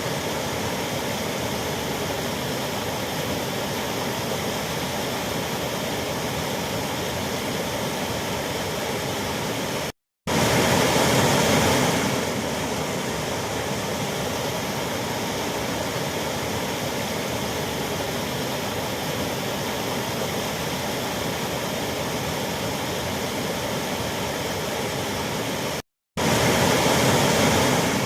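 A waterfall's steady rush of falling water. It cuts out for a split second twice, about ten seconds in and near the end, and comes back slightly louder for a couple of seconds each time.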